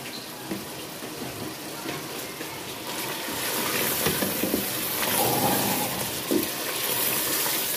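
Chicken and masala sizzling in oil in a cooking pot while a wooden spoon stirs them, at the bhuna stage where the oil has separated from the masala. The sizzle is steady and turns louder and hissier about three seconds in.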